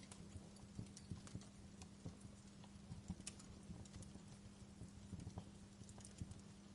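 Wood fire crackling, faint irregular snaps and pops of burning logs, several a second, over a low steady hum.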